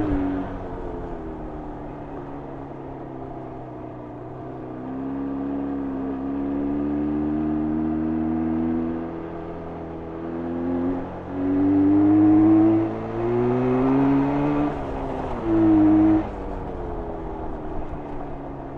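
Jawa 350 type 638 two-stroke twin engine under way, the note falling off at first and running low and quiet for a few seconds. It then revs up repeatedly, the pitch climbing and dropping back several times as the throttle is opened and closed, loudest in two short pulls in the second half. It settles to a lower, steady note near the end.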